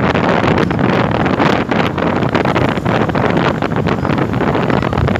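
Wind buffeting the microphone with irregular crackles, over the steady noise of a moving vehicle.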